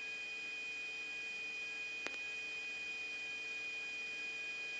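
Steady electronic hum on an open radio/intercom channel: a thin high tone and a lower tone over faint hiss, with a small click about two seconds in.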